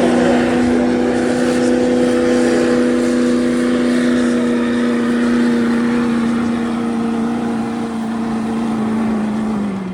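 Stock diesel pickup truck engine held at high, steady revs under heavy load while pulling the sled, over a loud roar. The pitch sags slightly near the end.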